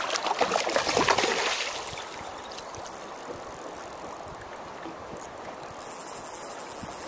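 River water rushing steadily, louder and choppier for the first two seconds.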